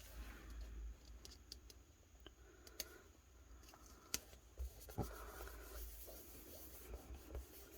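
Faint handling of paper and stickers on a journal page: soft rustling and scratching with a few light, scattered taps and clicks.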